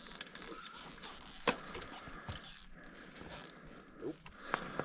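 Quiet handling noise of a dirt bike being manoeuvred by hand with its engine off: low rustling with two sharp clicks or knocks, one about a second and a half in and one near the end.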